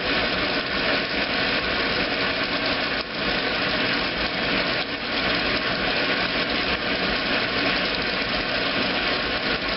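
2008 Kenmore top-load washing machine running through its heavy duty cycle, a steady mechanical hum and water noise with no clear rhythm.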